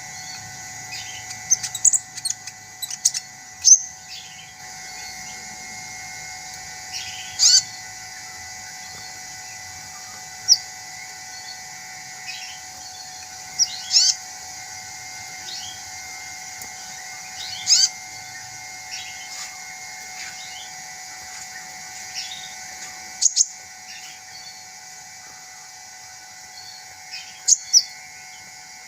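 A sunbird giving short, sharp, high chirps every few seconds, singly or in quick pairs, over a steady faint background drone.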